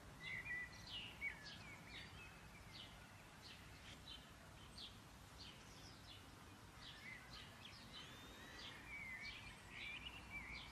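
Faint birds chirping and twittering, with short repeated high chirps and a few warbling glides, over a low steady hum.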